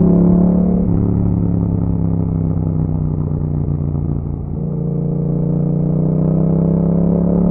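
Yamaha MT-07's parallel-twin engine running through an Akrapovic exhaust while riding. The note dips briefly about four and a half seconds in, then climbs steadily as the bike accelerates.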